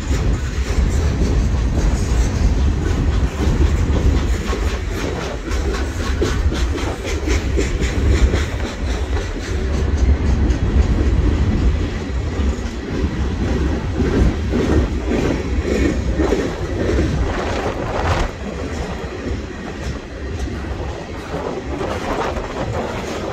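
Norfolk Southern freight train's cars rolling past, steel wheels clacking over the rail joints in a continuous run of clicks over a steady low rumble.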